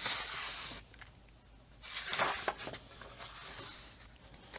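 Paper pages of a coloring book being turned, two soft rustling swishes about two seconds apart.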